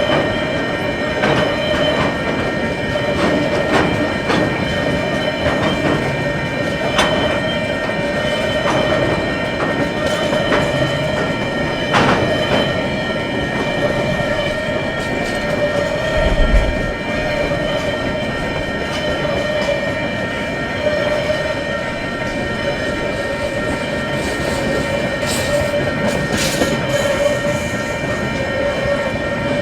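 Freight train wagons rolling past, wheels knocking irregularly over rail joints under a steady rumble, with a continuous steady whine.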